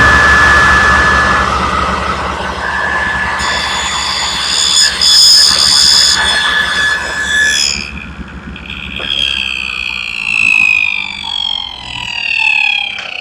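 Table saw switched on and running at full speed, its blade cutting through the wood for a few seconds in the middle. It is then switched off, and the blade spins down with a falling whine through the last few seconds.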